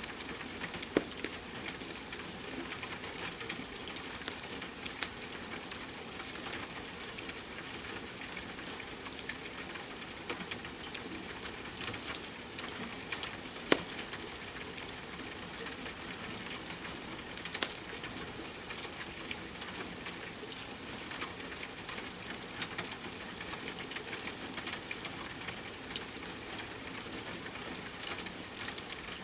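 Steady rain hiss mixed with a crackling wood fire: frequent small clicks and a few sharper pops, the loudest about fourteen seconds in.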